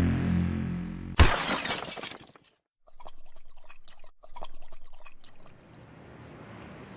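Intro music fading out, then a single sudden crash with a tail that dies away over about a second. After a short gap comes a run of irregular crackling clicks, and then faint outdoor background.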